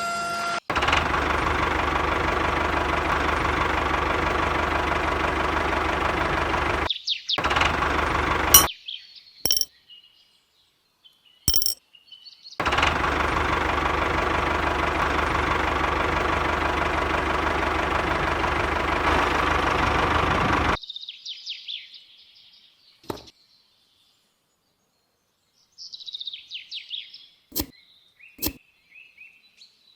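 A small motor running steadily, cut off abruptly a few times, followed by scattered high bird-like chirps and a few sharp clicks.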